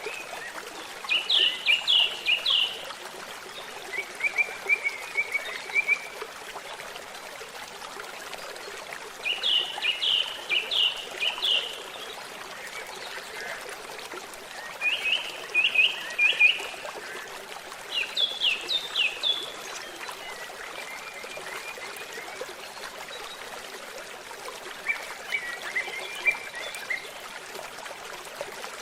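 A babbling stream running steadily, with a bird singing short phrases of rapid, falling notes every few seconds.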